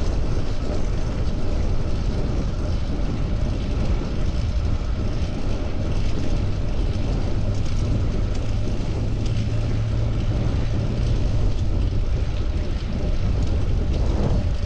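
Wind rushing over the microphone and road noise while riding a bicycle in traffic. A steady low hum from a passing vehicle comes in about seven seconds in and fades out about four seconds later.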